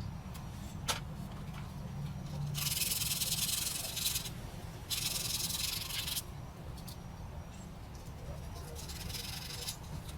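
Three bursts of hissing, each about a second or so long, starting and stopping abruptly, over a steady low rumble, with a few light clicks.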